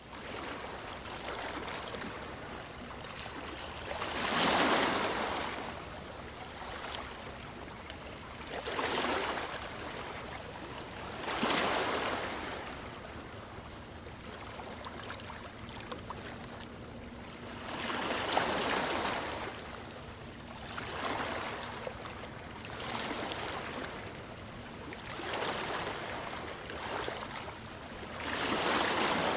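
Ocean waves breaking on a beach: a steady surf hiss with a louder wash rising and falling every few seconds, eight or so in all, the biggest about four seconds in.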